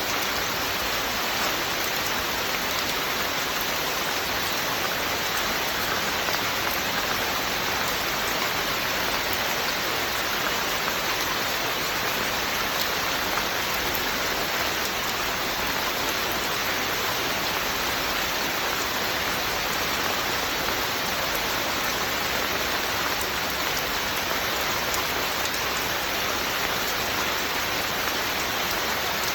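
Steady rain falling and pattering on surfaces, an even hiss with no breaks or other events.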